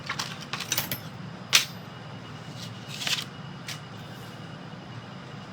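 Small clicks and taps of a pokey tool pushing tiny die-cut paper pieces out of an intricate cutting die, with a sharper tap about a second and a half in and another cluster of clicks around three seconds, over a steady low hum.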